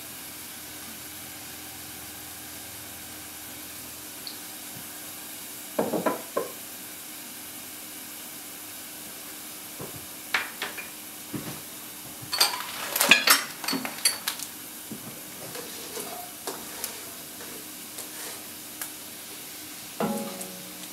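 Onion and garlic sizzling steadily in oil in a pot on the stove, with the clinks and clatter of utensils and dishes a few times, most of it a little past the middle. Near the end, chopped vegetables are tipped from a plastic cutting board into the pot.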